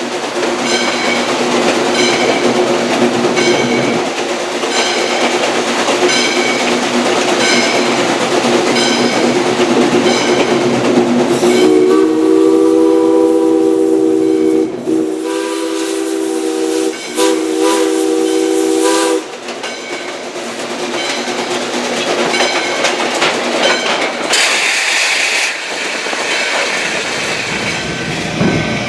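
A train rolling with an even, repeating clicking over a steady low hum. About twelve seconds in, the multi-note steam whistle of Valley Railroad Mikado No. 40 blows three times, one long blast followed by two shorter ones. A brief hiss comes near the end.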